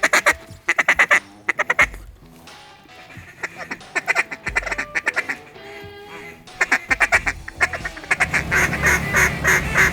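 Ducks quacking in rapid runs of short calls, several series one after another, thickening into almost continuous quacking over the last couple of seconds.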